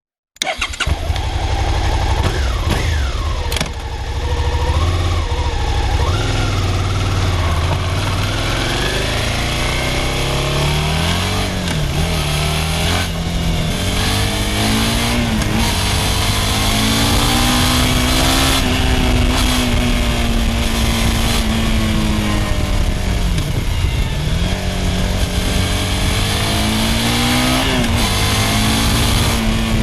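Suzuki SV650's V-twin engine through its stock exhaust while the bike is ridden: the engine note climbs under throttle and drops back several times, as through gear changes and easing off. It starts suddenly about half a second in.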